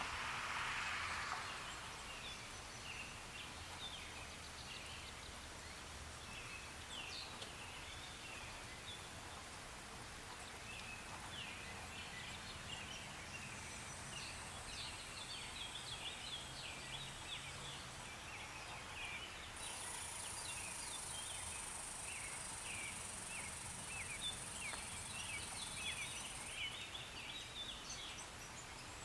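Outdoor ambience of many small birds chirping and twittering, after a soft rain-like hiss fades out in the first second or two. A steady high-pitched hiss joins about two-thirds of the way through and stops a few seconds later.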